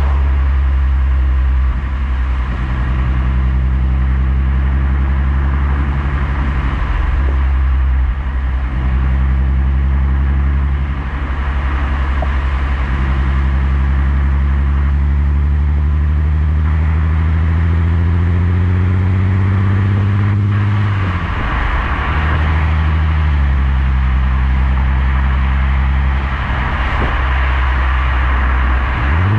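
Skoda Superb 3.6 FSI VR6 engine through a Gestec cat-back exhaust, droning steadily under light throttle on the road. The pitch slowly rises, then drops suddenly about two-thirds of the way through as the DSG gearbox shifts up, and holds steady again.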